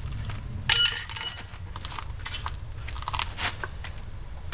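Steel wrench clanking against metal: one loud ringing clink about a second in, then small clicks and scrapes as a 15 mm spanner is worked onto the nut of a front anti-roll bar link.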